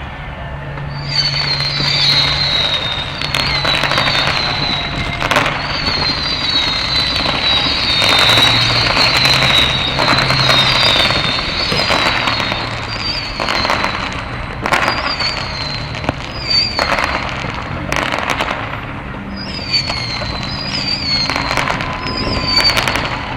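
Fireworks display: a run of bangs and crackling from aerial shells, one after another from about a second in. A high wavering whistle comes and goes over the bangs.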